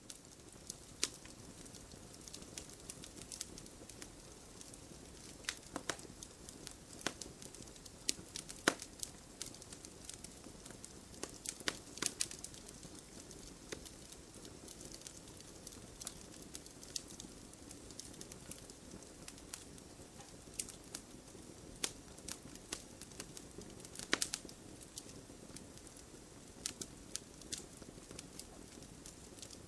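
Wood campfire crackling: irregular sharp pops and snaps, a few of them louder, over a steady low hiss of the burning fire.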